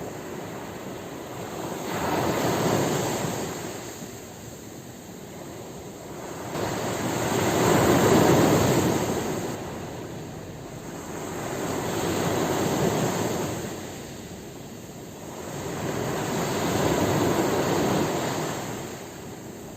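Ocean waves breaking on a shore, each wave swelling into a rushing surge and fading away, about four in the span.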